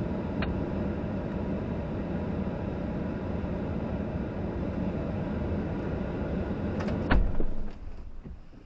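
Steady rumbling noise of a vehicle heard from a dashcam inside it, broken by a single loud thump a little over seven seconds in, after which the noise dies away.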